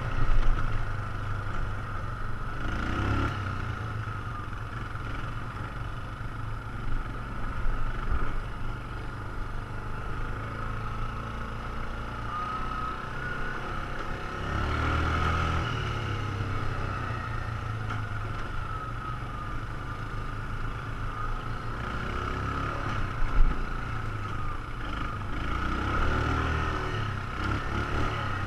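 ATV engine running under way on a dirt trail, its revs swelling and easing several times, with a few short sharp knocks.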